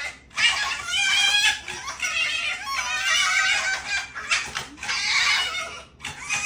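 A string of animal calls, high and wavering, broken by short pauses.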